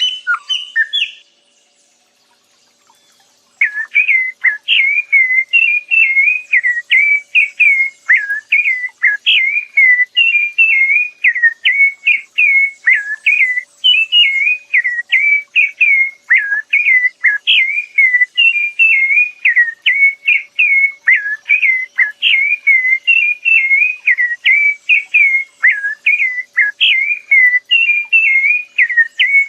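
A songbird singing: a long, unbroken series of quick whistled notes, each swooping down and back up, about two a second. It starts after a brief pause near the beginning, following the tail end of a harsher call.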